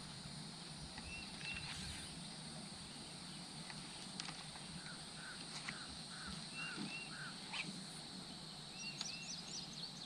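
Birds calling: short paired whistled notes repeated now and then, a run of about five lower notes a little past halfway, and quick high chirps near the end, over a steady low hum.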